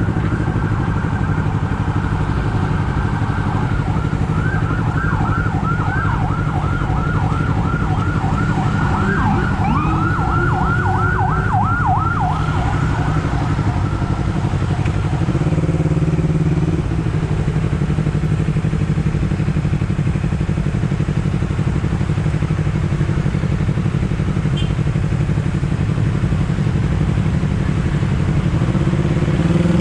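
Honda CBR250RR engine running steadily on the move, with an emergency vehicle's siren over it: a held high tone for a few seconds, then a fast yelp of about two to three sweeps a second that fades out around the middle.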